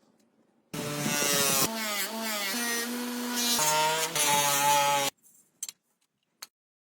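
Small electric power tool running, its motor pitch stepping up and down as the load changes, with abrupt starts and stops; then a few light clicks.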